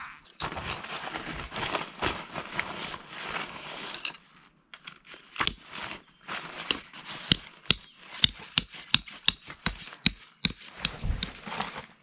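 Objects being handled: a few seconds of dense rustling, then a run of sharp clicks and knocks, two or three a second, some with a brief metallic ring.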